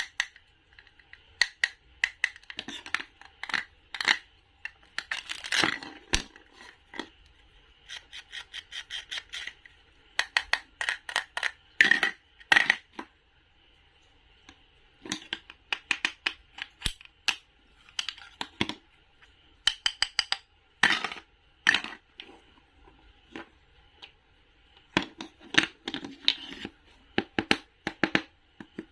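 Knife cutting fruit and vegetables on a cutting board: runs of quick, sharp, crisp taps and slices, broken by short pauses.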